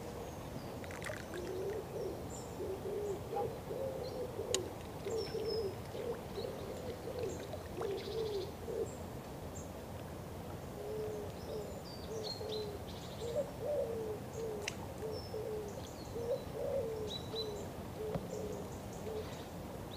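A bird calling in a low, repeated series of short notes, in two long runs separated by a pause of about two seconds. Small birds chirp faintly and high above it.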